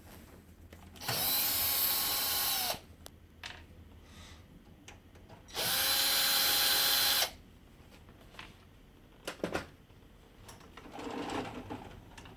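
Cordless power screwdriver running in two bursts of about a second and a half each, backing screws out of a laser printer's fuser housing, its motor pitch dropping as each burst stops. A few light clicks and a short rattle of plastic parts follow.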